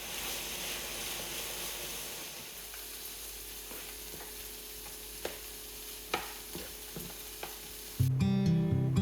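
Food sizzling as it fries in a pan, a steady hiss, with a few sharp clinks of a utensil against the pan as it is stirred. Acoustic guitar music comes in near the end.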